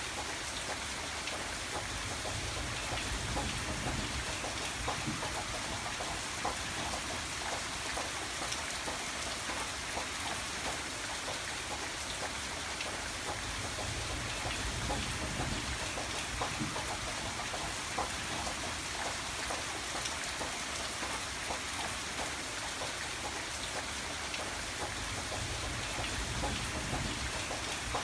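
Steady rain falling, with many sharp drip-like ticks over it and a low rumble that swells and fades three times.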